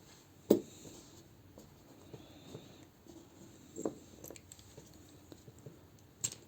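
Small plastic toy parts being handled and test-fitted: a few light clicks and taps with faint rustling between, the sharpest about half a second in, near four seconds and near the end.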